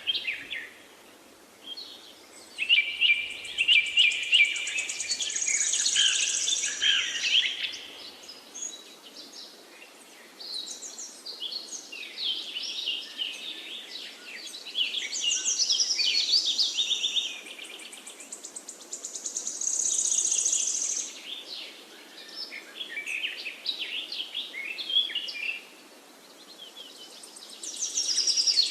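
Several songbirds singing at once, overlapping phrases of fast chirps and trills in bouts with short lulls, over a faint steady background hiss.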